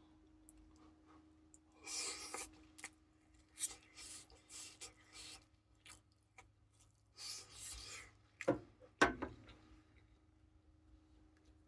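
Rustling and scraping handling noises in several short bursts, then two sharp knocks close together near the end, over a faint steady hum.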